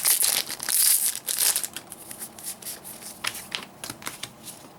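Foil trading-card booster-pack wrappers crinkling and crackling as packs are torn open and handled: a rapid run of sharp crackles, heaviest in the first second and a half, then lighter and scattered.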